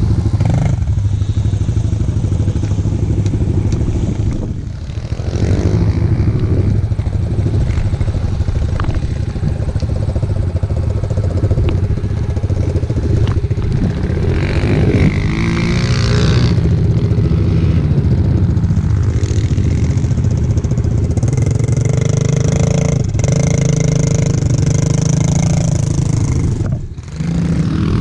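Small single-cylinder four-stroke pit bike engine running hard under throttle, revving up and down, with the throttle briefly shut off about four to five seconds in and again near the end.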